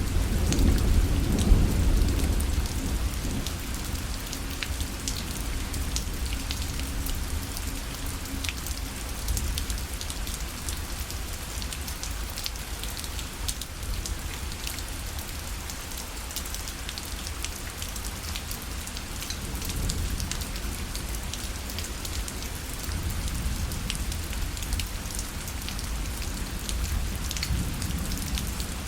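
Rain falling on a parasol: a steady patter of drops on the fabric. A low rumble of thunder is loudest in the first couple of seconds and then fades away.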